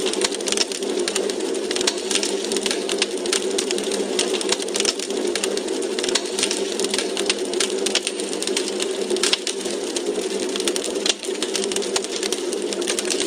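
Log fire crackling in a fireplace: dense, irregular pops and snaps over a steady rush of noise.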